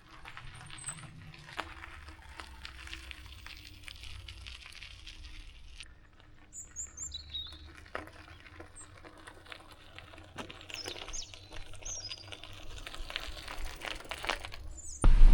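Small birds chirping in short, high calls several times over faint clicks and rustling. A sudden loud low rush cuts in right at the end.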